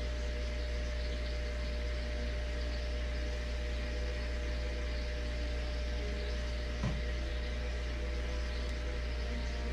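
Steady mechanical hum with a deep low drone and a few steady higher tones. There is one brief knock about seven seconds in.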